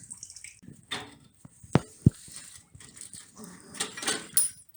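Metal clinks and rattles from work on the tractor with hand tools. Two sharp clanks come close together about two seconds in, and a burst of rattling follows near the end.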